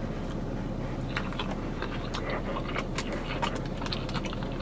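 Close-up chewing of a mouthful of salad with lettuce and grilled chicken: irregular soft crunching and wet clicks, over a steady low hum.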